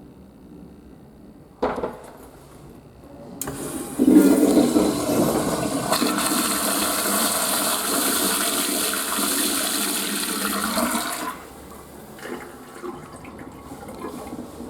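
Western-style flush toilet flushing: a sharp click about two seconds in, then a loud rush of water for about seven seconds that drops suddenly to a quieter running of water near the end.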